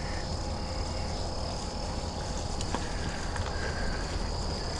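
Sirrus X hybrid bicycle rolling along a muddy trail: a steady low rumble of the tyres and wind on the microphone, with a few faint clicks. A steady high insect trill runs underneath.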